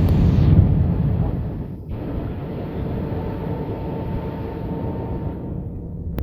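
Airbus A320 cabin noise: the steady rumble of engines and airflow, louder for the first second and a half and then settling lower, with a faint steady tone through it.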